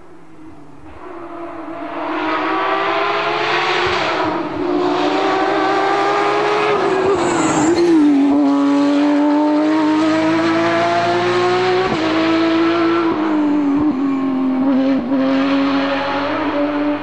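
Rally car engine at high revs coming closer, then running flat out: its pitch climbs steadily, drops sharply about halfway through and climbs again, with short breaks at the gear changes.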